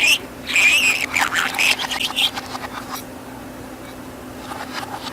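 Budgerigar chattering: fast, wavering, high-pitched warbles and chirps for about the first two seconds, then softer clicks and short chirps near the end. A steady low hum runs underneath.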